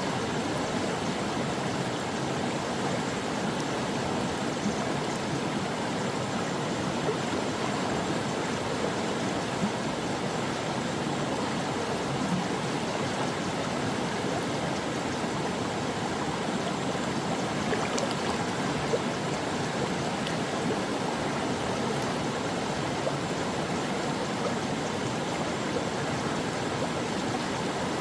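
Stream water running steadily over rocks, a continuous rushing and gurgling with small splashes.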